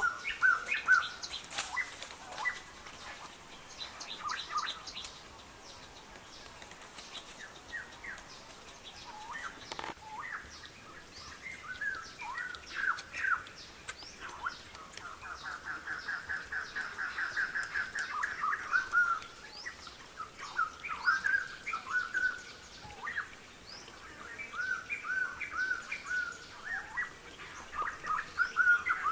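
Small birds chirping and calling in short repeated notes, with a quick trill a little past the middle.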